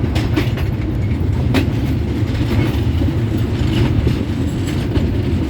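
Train running on the rails: a steady low rumble with scattered sharp clicks from the wheels.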